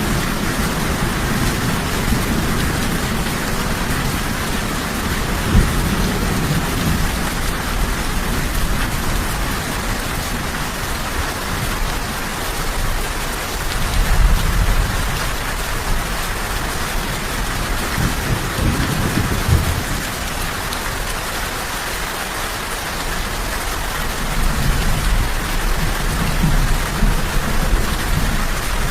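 Steady heavy rain falling, a dense even hiss, with low rumbles of distant thunder swelling and fading several times.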